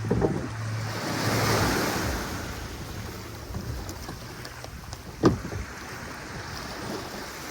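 Sea waves washing onto a beach: one wave swells up about a second in and slowly fades back. A brief sharp knock comes a little past five seconds in.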